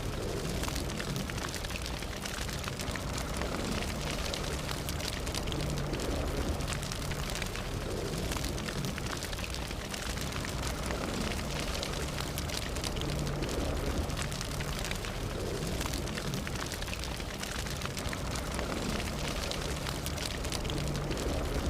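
Fire burning steadily: a continuous low rumble with many small crackles and pops scattered throughout.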